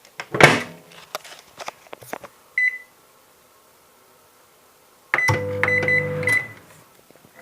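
Microwave oven being started for a one-second run: a clunk and a few clicks, a single keypad beep, then the oven running with a low hum for about a second, with high beeps over it.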